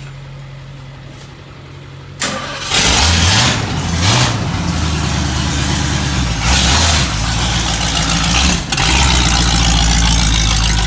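1972 Ford Mustang's engine starting up about two and a half seconds in, then running loudly with several revs.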